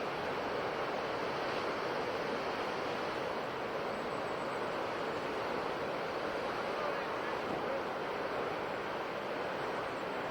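Sea surf washing against the shore in a steady, even rush with no distinct wave breaks.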